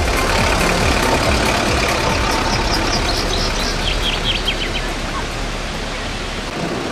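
Waterfall rushing with a steady, even roar, easing slightly in level; the last beats of electronic music die away in the first moment.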